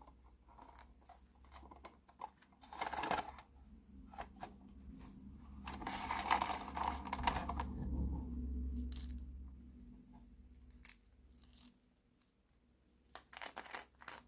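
Hands unpacking small plastic toy pieces: light clicks and taps, a brief rustle about three seconds in, and a longer stretch of crinkling, tearing packaging in the middle.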